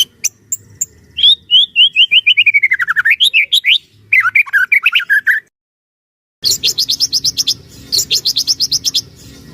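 White-rumped shama (murai batu) singing: a run of quick slurred whistles that rise and fall in pitch, then after a short break a fast trill of high rapid notes.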